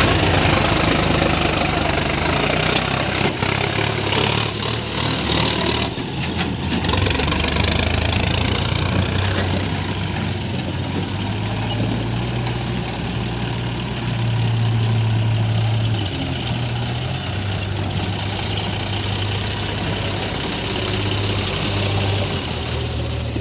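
Diesel engine of a backhoe loader or tractor running steadily, its pitch shifting up and down now and then. A few sharp knocks or clatters come about three to seven seconds in.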